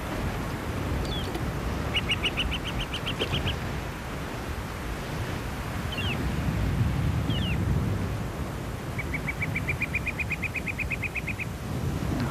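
Small songbirds calling: a rapid, even trill of short notes about two seconds in and a longer trill near the end, with a few short downward chirps between, over a steady low rumble.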